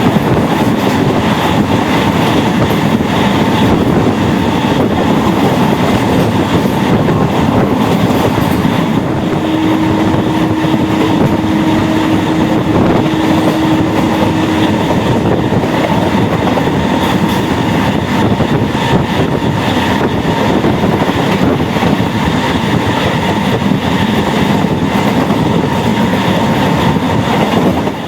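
MEMU electric multiple-unit train running at speed, heard from on board: steady, loud rail noise with wheels clattering over the track. A steady hum rises above it for several seconds in the middle.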